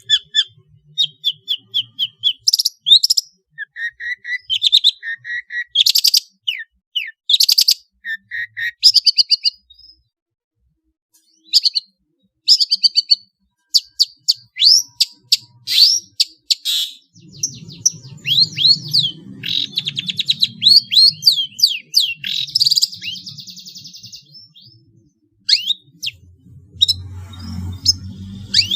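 Long-tailed shrike (pentet) singing non-stop: a fast, varied run of sharp chirps, rattling trills and sweeping whistles, full of mimicry of squabbling house sparrows, a white-rumped shama and other small birds. A low hum sits underneath from about halfway.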